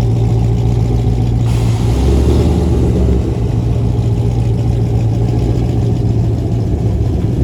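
Dodge Challenger's exhaust running loud and steady, with a deep, even rumble and a short, rougher burst about one and a half seconds in, as if the throttle is blipped.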